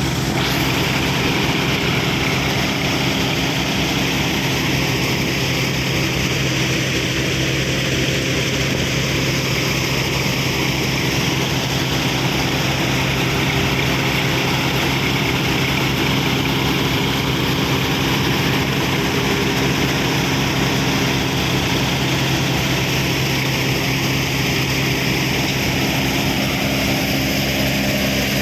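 John Deere tractor's diesel engine running steadily at a constant speed, an even drone that does not change.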